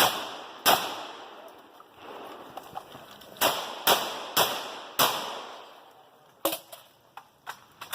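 Rock Island Armory VR-80 12-gauge semi-automatic shotgun firing six shots with a long echo after each. Two come about 0.7 s apart at the start, then four roughly half a second apart a few seconds later. Several lighter sharp clicks follow near the end.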